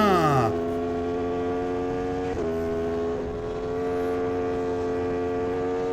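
Aprilia RSV4 superbike's V4 engine running at a steady high speed on a highway, a constant engine drone with wind. In the first half second another vehicle's sound sweeps down in pitch as it is passed.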